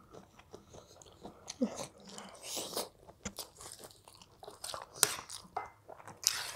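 A child chewing cheesy macaroni close to a headset microphone: wet chewing and mouth sounds, broken up by many short sharp clicks as a metal utensil scrapes and taps the plate.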